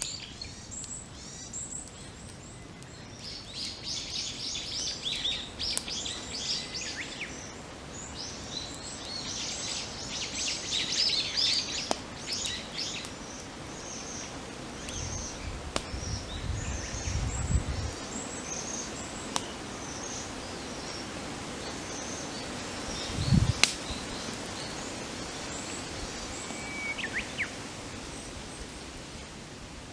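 Several wild birds singing continuously in rapid chirping phrases over a crackling campfire, which gives sharp scattered pops. Two dull low thumps come about halfway through and near the end of the third quarter, the second the loudest sound.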